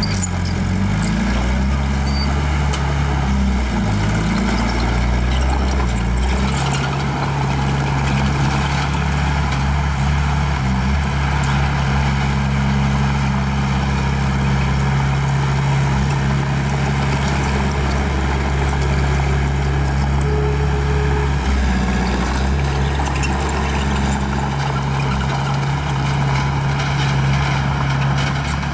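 Small bulldozer's diesel engine working steadily, its engine note shifting about six seconds in and again a little past twenty seconds.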